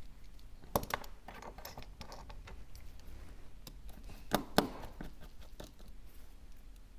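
Small repair tools clicking and tapping against the parts of an iPhone 12 being taken apart, with light scratching between: two sharp clicks about a second in and a louder pair around four and a half seconds in.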